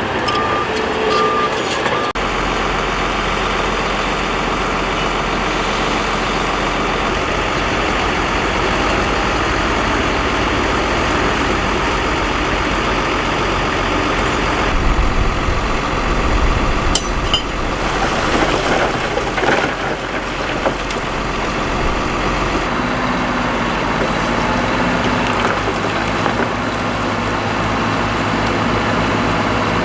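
Heavy earthmoving machinery running steadily, a bulldozer and dump trucks at work pushing and unloading rock and dirt. A reversing alarm beeps in the first second or so, and a few knocks come about halfway through.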